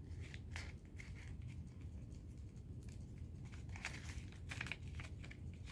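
Faint rustling and crinkling of paper and tape being handled, in short scattered crackles.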